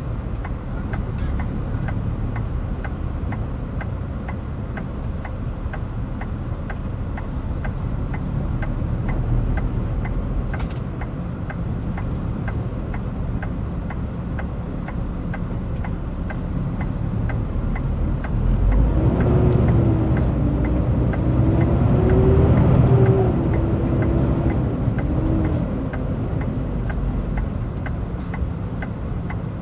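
A vehicle engine running steadily with a low rumble and faint, regular ticking. About two-thirds of the way through, a wavering engine tone swells, rising and falling, then fades back.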